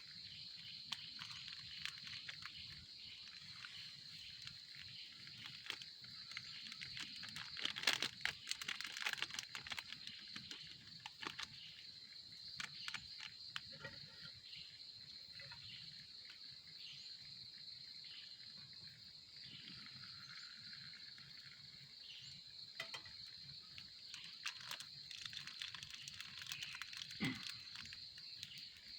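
A steady, high insect drone of the forest morning, with scattered clicks and knocks close by that come thickest about eight to ten seconds in and again near the end.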